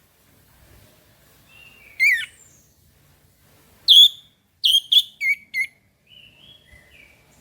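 Orange-headed thrush (anis merah) singing: a loud whistled note about two seconds in, another about four seconds in, then a quick run of four sharp notes, with soft quiet warbling between.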